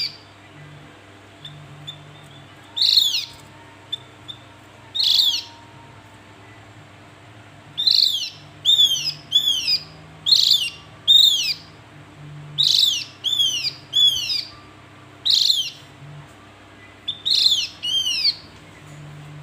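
Javan grey-throated white-eye (opior Jawa) calling: short, sharp high notes that drop steeply in pitch, given singly or in quick pairs and triplets every second or two.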